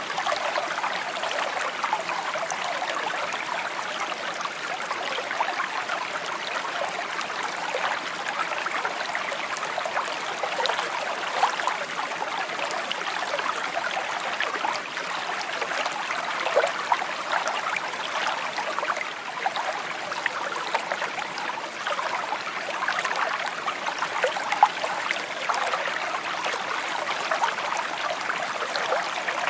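Brook babbling steadily, a clear, continuous trickle and gurgle of running water.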